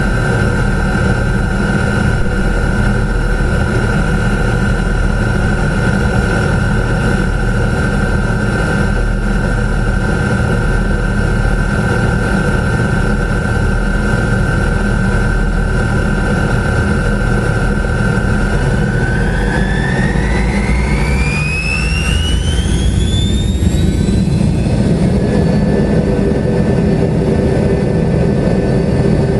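Tupolev Tu-134's Soloviev D-30 turbofans running with a steady whine and a deep rumble, then spooling up about two-thirds of the way through: the whine rises steeply and settles at a higher pitch as the engines reach take-off thrust.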